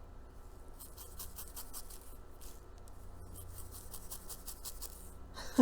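Faint, rapid scratchy strokes through synthetic wig hair as it is teased up for height, over a low steady hum.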